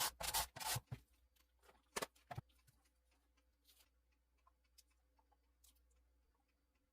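Kitchen handling noises during food preparation: a quick cluster of rustles and knocks in the first second, two sharp clicks about two seconds in, then only sparse faint ticks.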